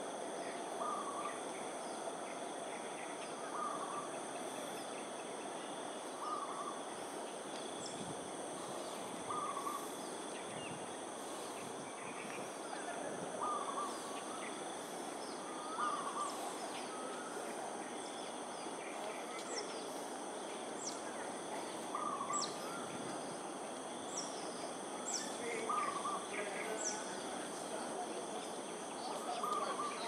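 Outdoor morning ambience: a bird repeats a short call every couple of seconds over a steady high insect drone and a constant background hum, with a few quick high chirps in the second half.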